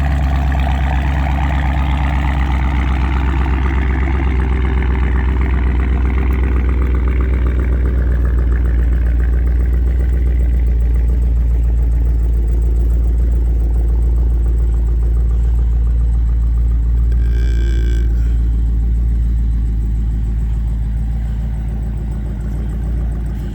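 Car engine idling steadily through an exhaust with the muffler deleted but the resonators still on, shortly after a cold start. A brief high tone sounds about three-quarters of the way through.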